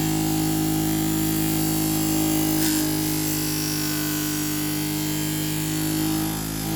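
Electric scissor-sharpening machine running with a steady hum while a kitchen knife is ground against its 400-grit abrasive paper. The sound dips briefly near the end.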